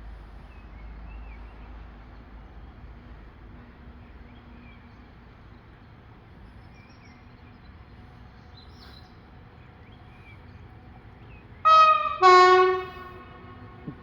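Air horn of an ET22 electric freight locomotive sounding twice in quick succession near the end: a short, higher note, then a longer, lower one. Before it, only a faint low rumble.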